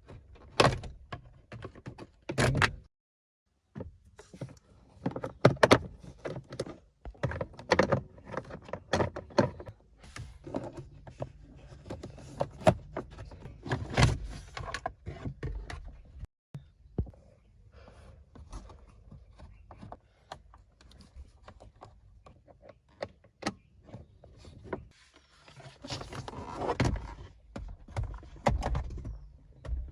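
Irregular clicks, knocks and thunks of hand work on a car's instrument cluster and its plastic trim, with brief silent breaks about three seconds in and near the middle.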